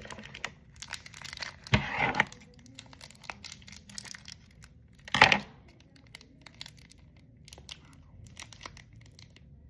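Packaging being torn open and crinkled by hand: two louder rips, near 2 seconds and just after 5 seconds, with scattered lighter crackles around them.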